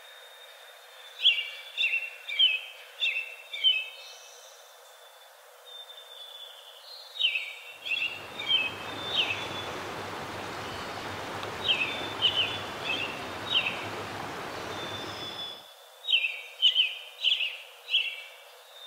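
Birdsong: short phrases of quick, high chirps repeated every few seconds. From about eight seconds in to about fifteen, a steady rushing noise sits underneath.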